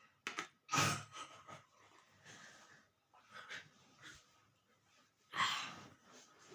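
A person eating dal and rice up close: chewing, mouth smacks and breaths in irregular bursts, the loudest about a second in and again just past five seconds.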